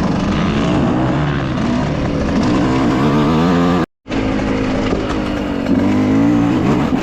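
Dirt bike engine running while being ridden, its pitch rising and falling with the throttle. The sound cuts to silence for an instant a little past halfway, then the engine carries on.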